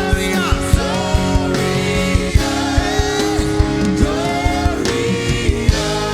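Gospel worship music: singing over held keyboard chords with a steady drum beat.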